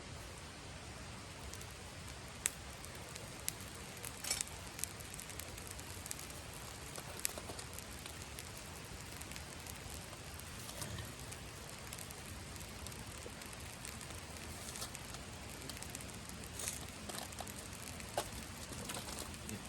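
Wood campfire crackling: a steady hiss with scattered sharp pops, a handful of them louder than the rest.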